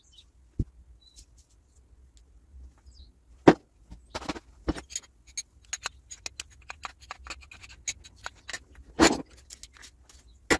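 Small metal parts and tools clicking, tapping and knocking irregularly as an espresso machine is dismantled, with a few louder knocks about three and a half seconds in and about nine seconds in.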